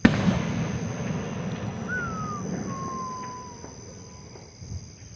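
An aerial firework shell bursting with one sharp bang, followed by a low rumbling echo that fades over about four seconds. About two seconds in, a thin whistle falls in pitch and trails off.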